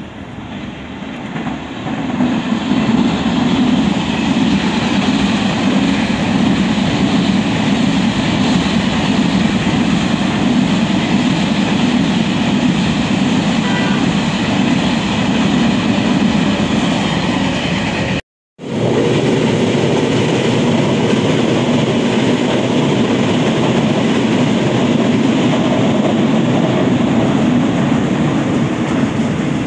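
A train passing on the track: the steady rumble and clatter of its wheels on the rails builds over the first couple of seconds, then holds. The sound cuts out completely for a moment about eighteen seconds in.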